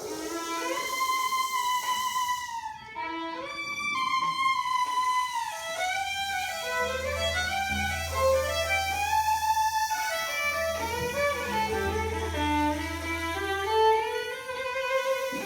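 Solo violin playing a sliding, expressive melody over a low sustained bass note, as an instrumental break in a song.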